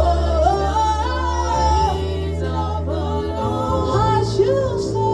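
Worship music: voices singing a slow gliding melody over sustained low accompanying notes that shift to new chords twice.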